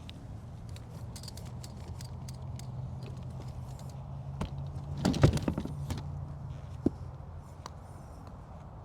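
Light clinking and rattling, densest and loudest about five seconds in, with a single sharp click near the end, over a steady low motor hum.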